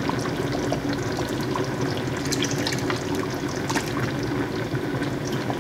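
Tomato stew bubbling in a pot, with small pops, as tinned mackerel in tomato sauce is poured in.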